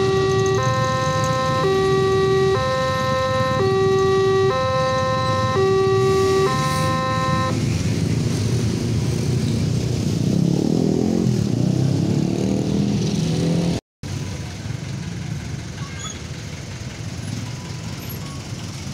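Electronic railway level-crossing warning alarm alternating between a lower and a higher tone, each held about a second, which stops about seven seconds in. Vehicle engines then run and rise in pitch over a steady traffic rumble.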